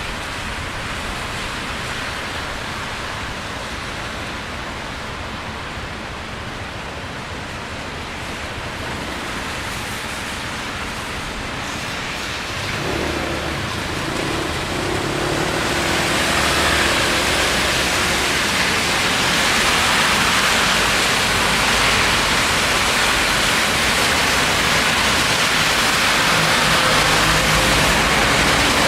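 Steady rain hiss on a city street, with wet traffic noise underneath. It grows louder and brighter about halfway through, then holds.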